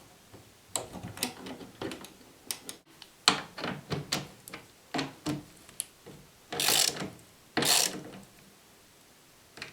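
Screws being driven into a fridge's bottom door hinge with a hand screwdriver: a string of short clicks and knocks, then two longer, louder grinding bursts about two-thirds of the way in.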